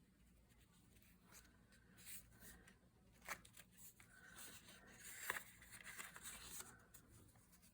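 Near silence with faint paper rustling and handling, broken by a couple of light taps.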